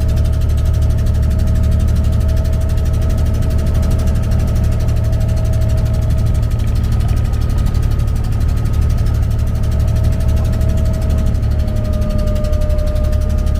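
Abra's diesel engine running steadily: a low drone with a steady whine above it that drops slightly near the end.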